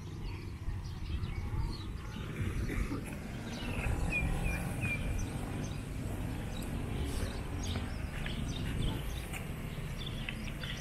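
Outdoor ambience: a low steady rumble, with a bird chirping three times in quick succession about four seconds in and faint bird calls later.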